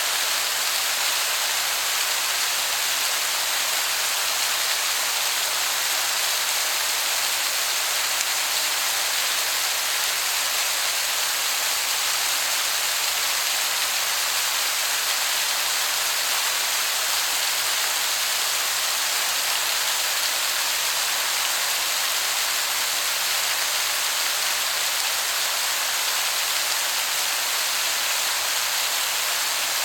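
Waterfall heard from a distance: a steady, even rushing hiss of falling water that sounds like heavy rain.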